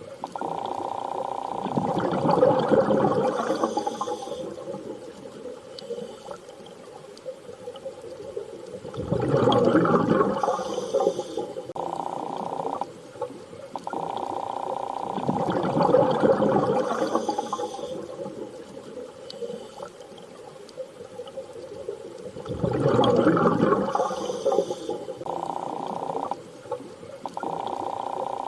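Underwater-style water ambience: a swell of rushing, bubbling water about every seven seconds over a steady hum.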